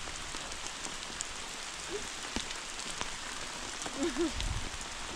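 Steady rain falling on surfaces, with scattered sharp drop clicks. A short wavering voice-like call sounds about four seconds in.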